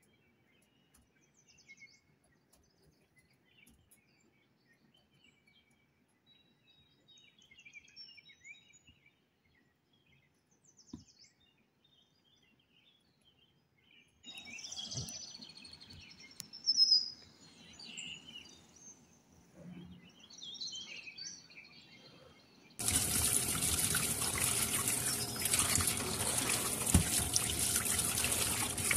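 Hands rubbing salt onto whole fish in a steel bowl, with wet rubbing sounds. Then, about two-thirds of the way in, a kitchen tap is suddenly turned on and runs steadily into a steel bowl as the fish are washed; this is the loudest part.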